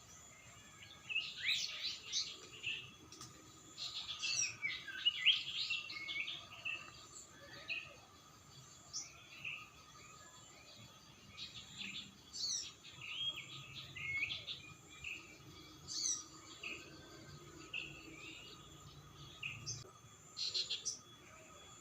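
Wild birds chirping and singing: short, varied calls and trills in clusters, busiest and loudest in the first several seconds.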